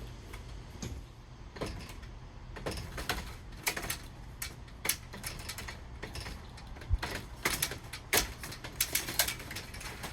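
Irregular clicks, knocks and rattles as a screen door panel is fitted onto metal drawer slides.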